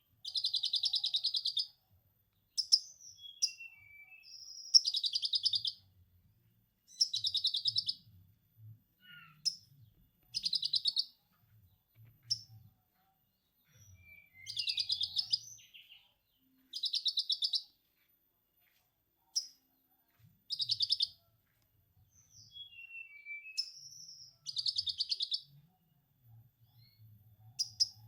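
Konin songbird singing lovebird-style 'ngekek' material: roughly one-second bursts of rapid, high chattering notes repeated every couple of seconds, with short whistled and slurred notes in between.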